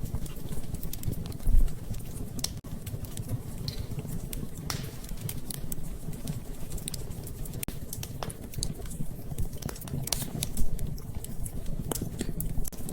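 Wood fire crackling in a fireplace: irregular snaps and pops over a low steady rumble, with a louder thud about a second and a half in and another pop near the end.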